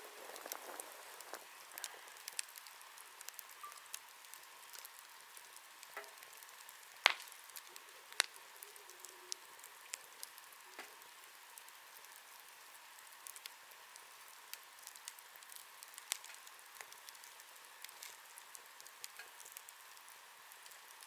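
Campfire crackling: a soft steady hiss with scattered small pops and snaps, the sharpest about seven seconds in and another a second later.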